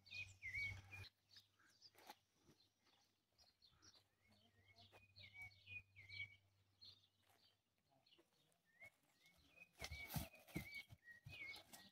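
Faint bird calls: a short chirped note repeated over and over, with scattered soft knocks.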